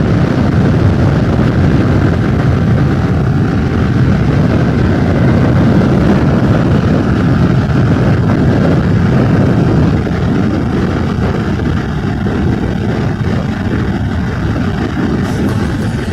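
Yamaha R15 V3 sport bike ridden flat out on a top-speed run: heavy wind rush over the microphone with the single-cylinder engine running steadily underneath, easing off slightly about ten seconds in.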